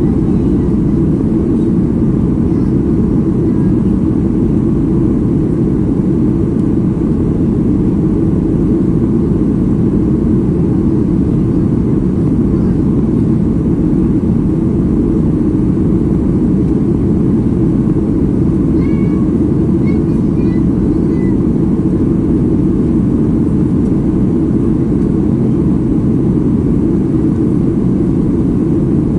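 Steady cabin noise inside a Boeing 737 MAX 8 in flight: a loud, even rumble of engines and airflow. A few faint, short, high chirps come about two-thirds of the way through.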